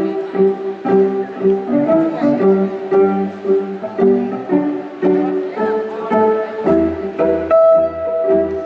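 Live band music: a repeating figure of short pitched notes on string instruments, with a bass line coming in about two-thirds of the way through.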